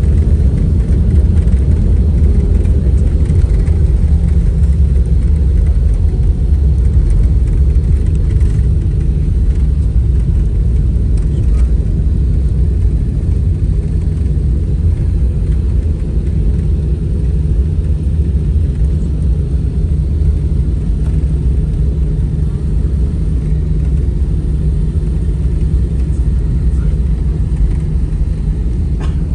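Airliner cabin noise from inside the aircraft during landing: a loud, steady low rumble of engines and airflow, easing a little toward the end.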